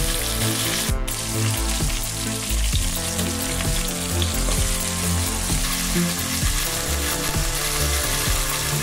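Chicken thighs sizzling as they brown in rendered guanciale fat in an enamel pot, the sizzle cutting out for a moment about a second in.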